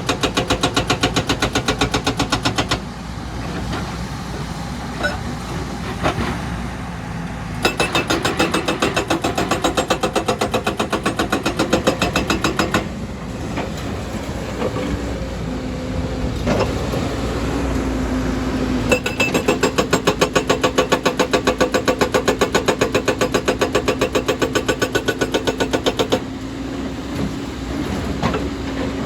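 Excavator-mounted hydraulic rock breaker hammering rock in three spells of rapid, evenly repeated blows, with the diesel engine running on between them.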